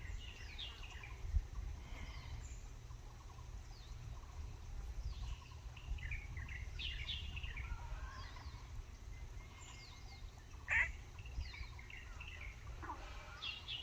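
Many small birds chirping and calling in a forest, short quick falling notes overlapping throughout, over a steady low rumble. One brief, louder sharp sound stands out about eleven seconds in.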